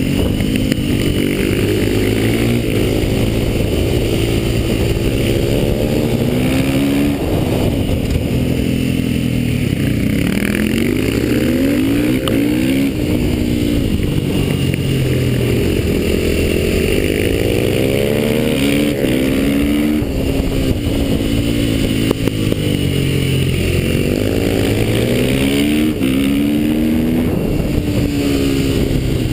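KTM motorcycle engine heard close up from the rider's own bike, revving up in rising runs and dropping back over and over as it accelerates out of bends and shuts off into the next.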